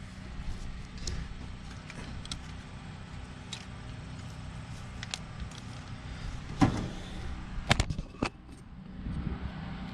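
Scattered light clicks and clinks of tools and metal engine parts being handled during valve cover work, with a few sharp, louder knocks about two-thirds of the way through, over a steady low hum.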